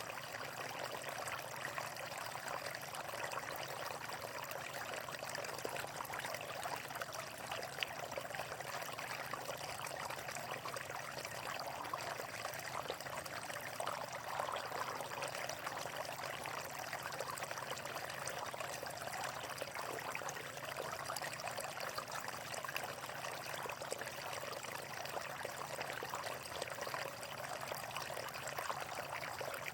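Running water flowing steadily, a continuous trickling rush.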